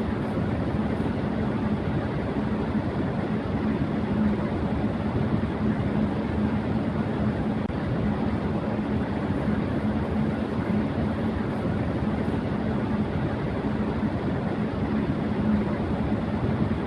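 Electric fan running at high speed: a steady airy whoosh with a low hum underneath.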